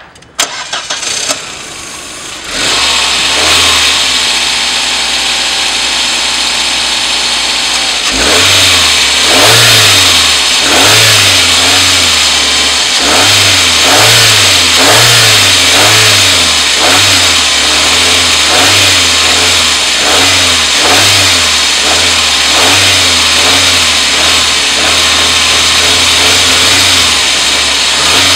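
Volkswagen Passat 1.8 four-cylinder petrol engine (code ADR) cranking and catching about two seconds in, then idling steadily. From about eight seconds in it is revved repeatedly in short blips, about one a second.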